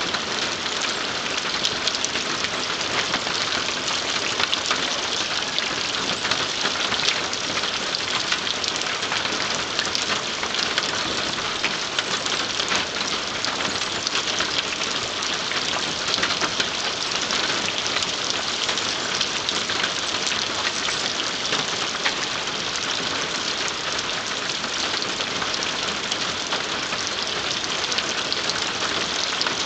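Steady rainfall: an even hiss of falling rain with many small drop ticks, unchanging throughout.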